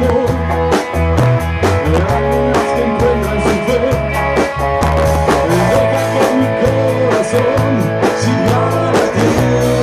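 Rock band playing, with a drum kit keeping a steady beat under bass and guitar.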